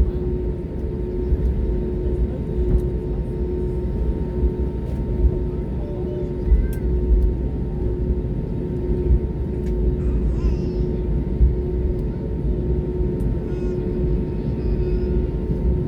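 Steady low rumble inside the cabin of a British Airways Airbus A320neo taxiing after landing, its engines at idle, with a faint mid-pitched hum that pulses on and off at an even pace.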